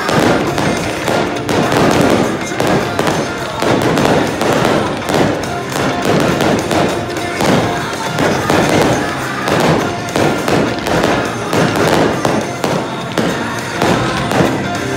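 Fireworks display: a dense, unbroken run of shell bursts and crackling, one bang after another.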